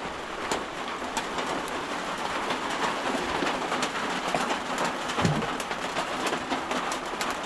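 Heavy rain falling: a steady hiss dotted with many sharp drop impacts, with a brief low sound about five seconds in.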